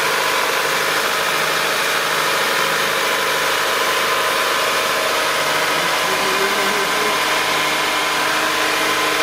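A 1999 Honda Civic / Acura EL engine idling steadily with its newly installed power steering, A/C compressor and alternator belts, run as a check after the installation.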